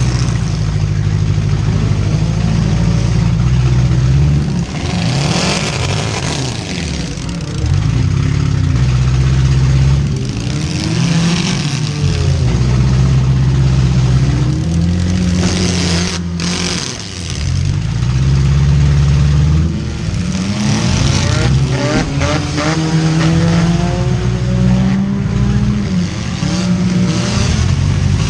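Four-cylinder demolition derby car engines revving hard up and down, with several sharp metal-on-metal crashes about halfway through and again in the last third.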